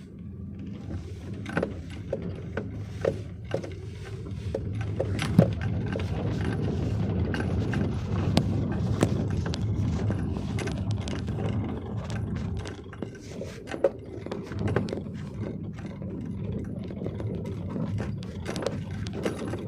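A vehicle driving over a rough road: a steady low rumble with frequent rattles and knocks.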